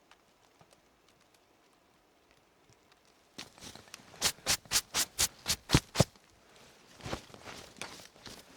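A quick run of about nine sharp knocks, roughly four a second, starting a few seconds in and lasting about three seconds, then a few weaker knocks.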